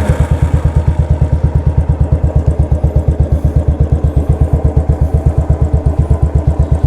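Royal Enfield Continental GT 535's single-cylinder engine idling loudly through a custom exhaust, a steady even beat of about eleven pulses a second.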